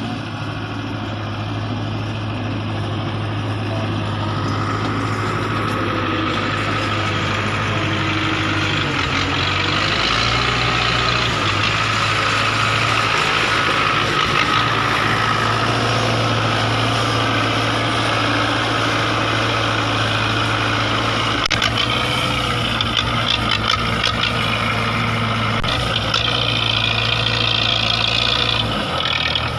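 Belarus 510 tractor's diesel engine running steadily, its low note shifting about ten seconds in and dropping away near the end.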